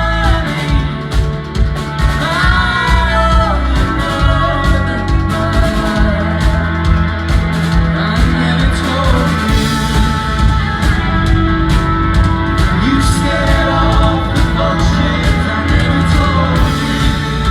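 Rock band playing live: drum kit keeping a steady beat under sustained bass and guitar chords, with a sung vocal line coming in at times.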